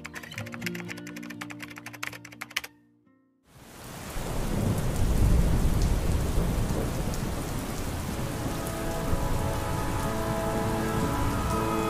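Computer keyboard typing clicks over soft music, cut off after a couple of seconds into a brief silence. Then a rain-and-thunderstorm ambience fades in: steady heavy rain with a low rumble of thunder, and soft sustained music notes joining in the second half.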